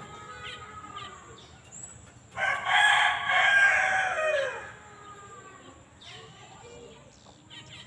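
A rooster crowing once, a drawn-out call of about two seconds that drops in pitch at the end, over faint scattered bird chirps.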